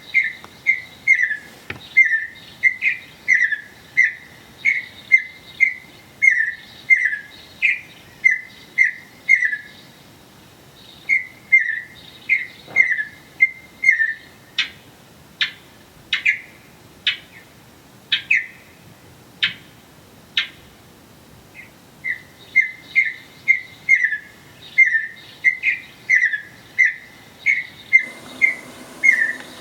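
Eastern bluebird calling over and over: short, down-slurred whistled notes about two a second, with a stretch in the middle of sharper, more widely spread notes about one a second before the steady calling resumes.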